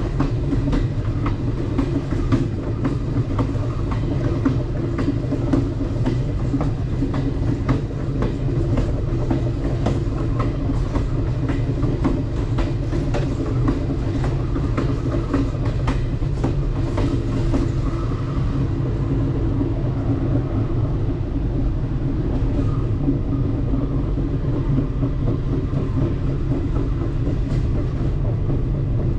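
Alaska Railroad passenger train rolling along the track: a steady low rumble from the wheels and cars, with frequent sharp clicks of the wheels over the rails that become fewer and softer about two-thirds of the way through.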